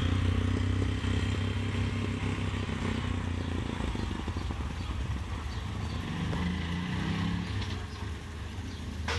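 A motor vehicle's engine running steadily, a low even hum, amid street sounds.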